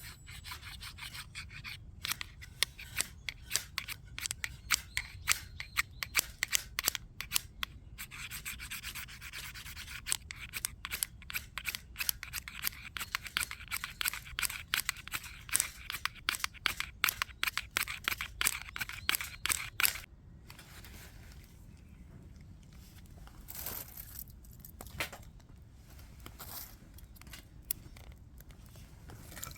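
Rapid, repeated scraping and rasping strokes, close to the microphone, for about twenty seconds. After that only a few fainter, scattered scrapes.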